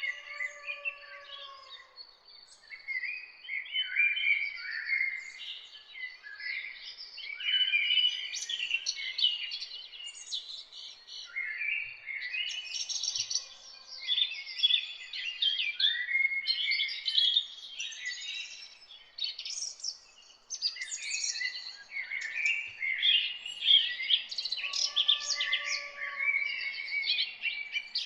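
Several songbirds singing and chirping together in dense, overlapping phrases that come in bursts of a few seconds with short lulls between them, with an occasional lower, slower whistled call beneath.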